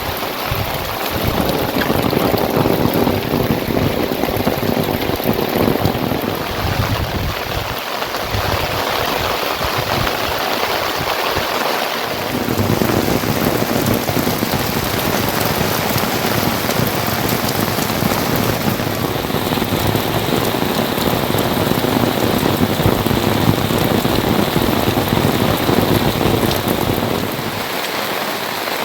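Rain falling steadily, a loud dense hiss of drops hitting surfaces; its sound changes about twelve seconds in and again near the end.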